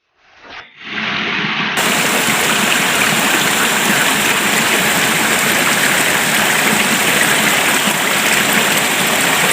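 Steady rushing of water, a loud even hiss that starts abruptly about a second in and holds steady.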